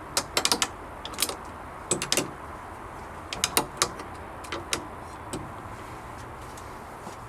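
Clusters of sharp metallic clicks and clinks from small metal hardware and tools being handled while fitting a hasp latch to a wooden gate, over a faint steady background hum.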